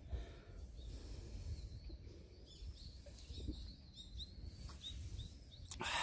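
A few faint, high bird chirps over a steady low rumble of wind on the microphone, with a short burst of noise near the end.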